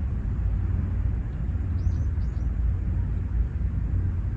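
Outdoor ambience of a steady low rumble, with a few short, high bird chirps about two seconds in.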